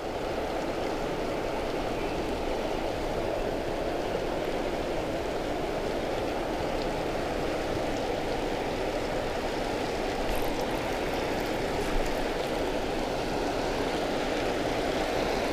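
Steady rushing of water pouring over a spillway, an even noise without breaks.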